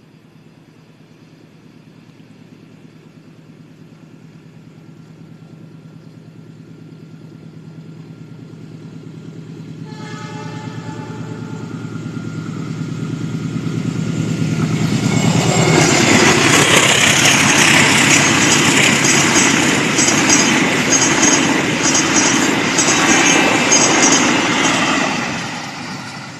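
A diesel-hauled passenger train with stainless-steel coaches approaching, its engine hum growing steadily louder, and the locomotive sounding its horn about ten seconds in. It then passes close by with a loud roar and rapid clatter of wheels over rail joints for about ten seconds, which falls away sharply near the end.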